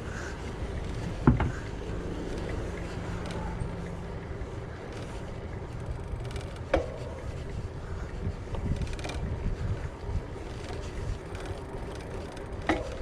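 Wind buffeting the microphone and a steady low rumble while riding a bicycle, with three sharp knocks: about a second in, about midway, and near the end.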